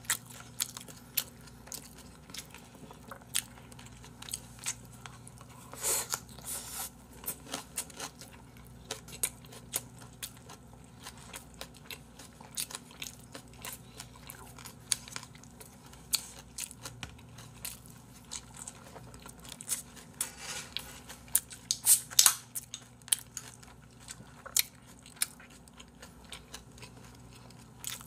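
Close-miked eating sounds: chewing and crunching food, with many irregular sharp clicks and smacks. The loudest come about six seconds in and in a cluster a little past twenty seconds.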